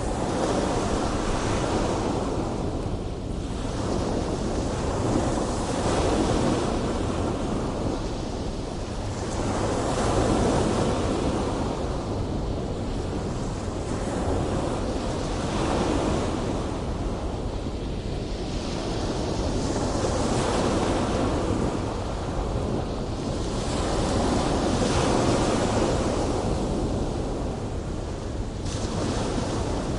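Big ocean waves breaking and surging in a continuous roar that swells and ebbs every few seconds, with wind rumbling on the microphone.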